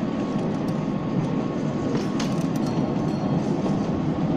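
Small tourist train running steadily along its track, a continuous low rumble from its drive and wheels on the rails with a faint steady whine above it.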